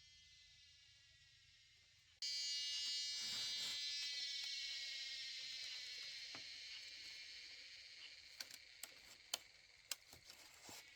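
An insect, most likely a cicada, starts calling suddenly about two seconds in: a high, buzzing drone that slowly fades and drops a little in pitch. A few sharp ticks come near the end.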